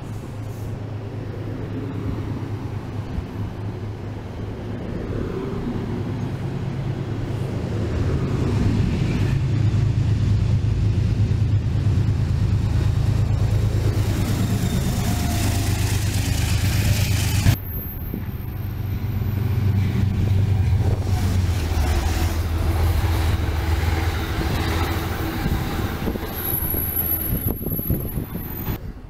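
Diesel-hauled commuter train passing close by at a platform: a steady low engine drone with rolling wheel and rail noise, and a brief high-pitched squeal near the end.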